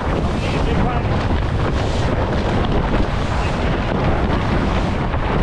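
Wind buffeting the microphone of a camera on a sailboat under way: a loud, steady, rumbling rush.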